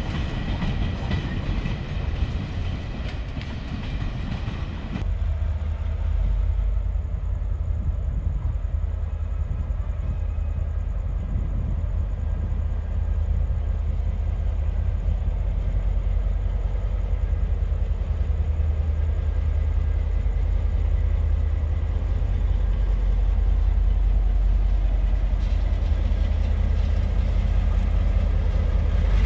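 Freight train rolling along the track, its wheels clattering over the rails. About five seconds in, the sound changes abruptly to a heavy, steady low rumble with little high end.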